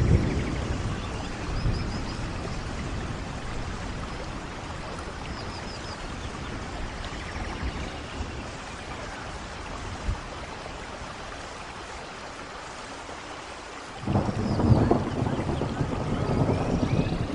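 Steady rain falling, with a roll of thunder right at the start and a louder thunder rumble building about three-quarters of the way through.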